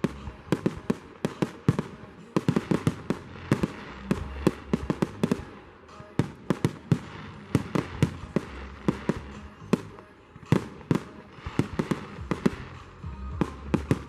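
Fireworks going off in a display: a rapid, irregular run of sharp bangs and crackles, several a second, easing briefly about six and ten seconds in.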